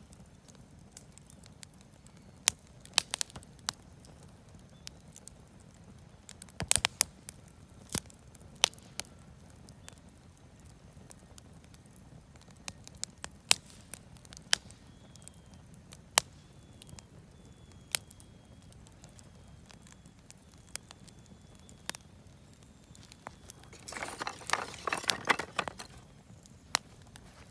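Bonfire of wood offcuts and firewood crackling: scattered sharp pops every second or two over a low steady rumble, with a denser run of crackling about 24 seconds in.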